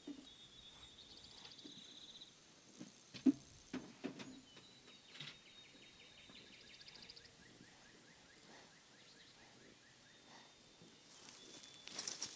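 Songbirds singing high trills and whistles, with a single short thump about three seconds in and a few sharp crackling clicks near the end.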